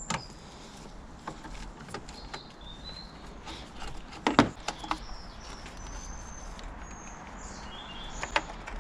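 Small birds chirping in short high whistles, with a few sharp metal clicks and knocks from a socket wrench and extension being fitted to and working the battery clamp bolt, loudest about four and a half seconds in.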